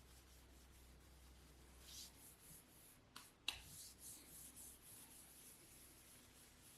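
Near silence with faint rubbing or scraping and two sharp little clicks in quick succession about halfway through.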